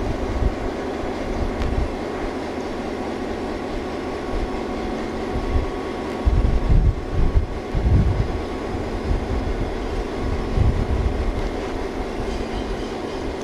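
A railcar rolling along the track, with a steady running rumble and irregular heavy low thumps from the wheels and trucks, strongest around the middle.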